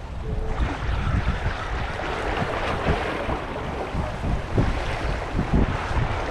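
Wind buffeting the microphone in irregular low rumbles, over a steady hiss of surf washing against the shore rocks that swells about half a second in.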